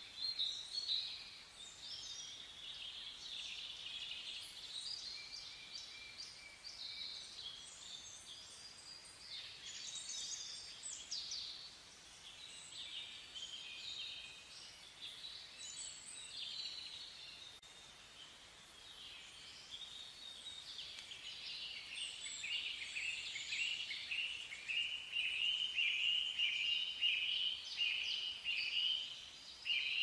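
Several small birds chirping and calling in quick, short notes. From about two-thirds of the way through, one bird repeats a rapid run of chirps that grows louder toward the end.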